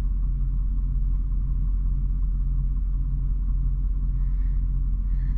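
A vehicle engine idling steadily: an even low rumble with a constant hum.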